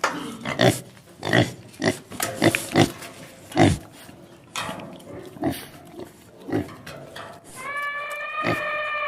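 A farm animal grunting in about a dozen short, sharp bursts, then giving one long drawn-out call with a steady pitch near the end.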